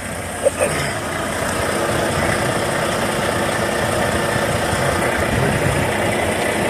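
Semi-truck diesel engine idling steadily, with two short clicks about half a second in.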